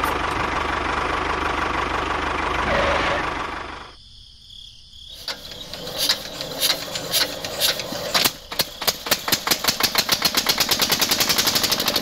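A small single-cylinder diesel engine being started: scattered putts about five seconds in quicken into a fast, steady chugging by about nine seconds. Before that, a steady running din cuts off about four seconds in.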